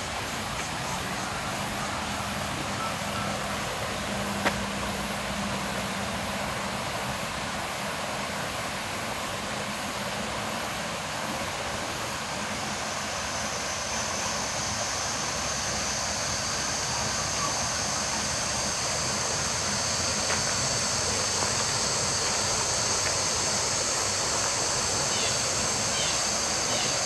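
Insects calling over a steady background hiss: a faint, high chirp pulsing about twice a second for roughly the first twelve seconds, then a steady, high buzzing that comes in about halfway and holds.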